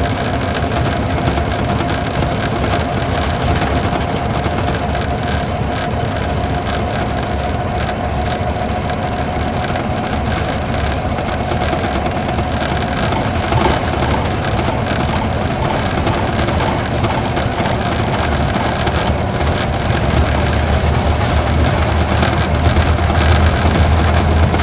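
Isuzu Gala coach's V engine running on the road, heard inside the passenger cabin along with tyre and road noise. The low engine rumble grows louder over the last few seconds as the bus pulls harder.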